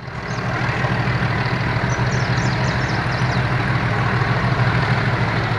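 Metre-gauge diesel locomotive engine idling steadily, with short high chirps over it a couple of seconds in.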